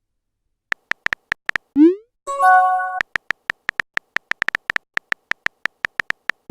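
Messaging-app sound effects: short typing taps, then a quick rising blip about two seconds in and a short tonal chime, followed by a faster run of typing taps.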